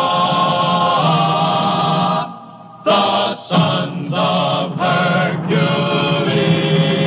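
Choir singing the opening of a theme song: one long held chord, a short break, then a run of shorter sustained notes.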